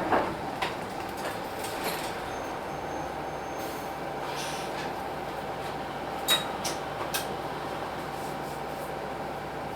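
Hino Blue Ribbon City bus with its P11C 10.5-litre diesel running steadily, heard from the front of the bus, with a few sharp clicks about a second in and again around six to seven seconds in.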